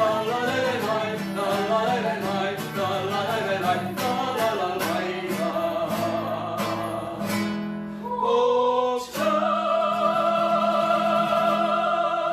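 Singing of the wordless 'la la lai' refrain over strummed acoustic guitar, the closing bars of a song. The song ends on a long held note and chord from about nine seconds in, cut off sharply near the end.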